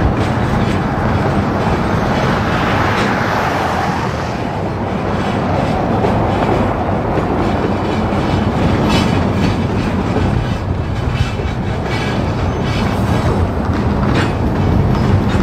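Union Pacific freight cars rolling slowly past: a steady rumble of steel wheels on rail, broken by sharp clacks as the wheels cross rail joints, more often in the second half.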